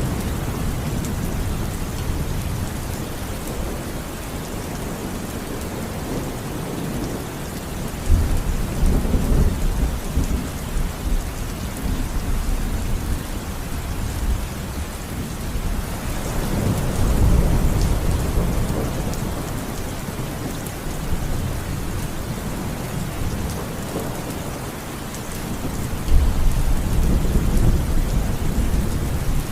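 Steady rain falling, with three rolls of low thunder rumbling through it: one breaking in about eight seconds in, one swelling in the middle, and one near the end.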